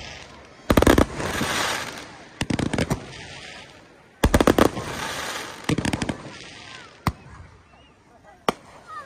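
Aerial fireworks bursting: loud bangs, some coming in rapid clusters. Two of the bursts trail off into a second or more of crackling, and single bangs come further apart near the end.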